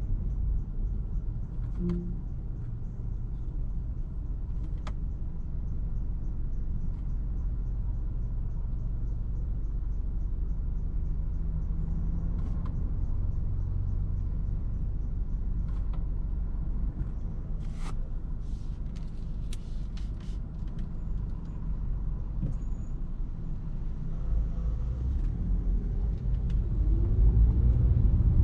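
Lexus RX 200t's 2.0-litre turbocharged four-cylinder (8AR-FTS) and road noise as the car is driven in city traffic, a steady low rumble that grows louder near the end.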